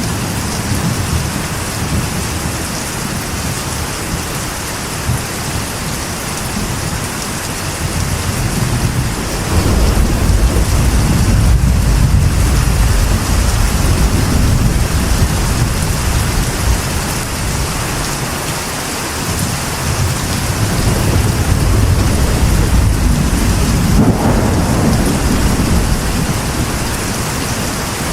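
Steady rain hissing on a metal roof, with rolling thunder rumbling underneath; the thunder swells up about a third of the way in and again in the later part.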